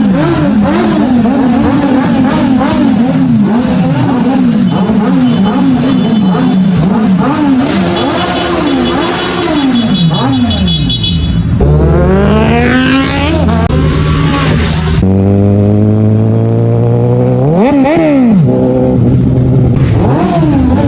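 Motorcycle engine revving, its pitch rising and falling over and over. After abrupt cuts, engines run steadily with sweeping revs, and there is one quick rev up and down near the end.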